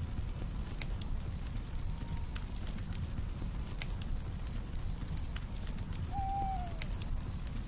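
Campfire crackling with scattered sharp pops over a low rumble, and a cricket chirping steadily in the background. About six seconds in comes a single owl hoot that falls in pitch at its end.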